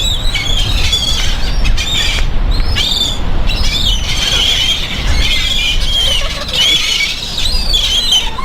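A flock of seagulls squawking and squealing, many short calls overlapping one another continuously, over a steady low rumble.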